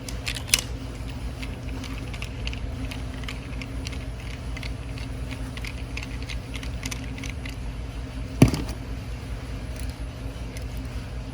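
Light clicks and ticks of a small plastic gear shifter switch being handled and its screws taken out, with one sharp louder click about eight seconds in, over a steady low hum.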